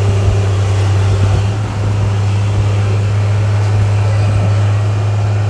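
A steady low machine hum under the general background noise of a busy market.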